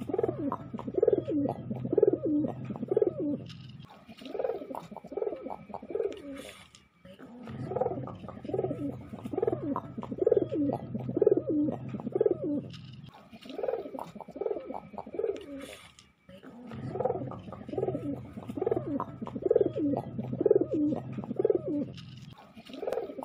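Domestic pigeon cooing: bouts of pulsing low coos, about two a second, each bout lasting several seconds with short pauses between.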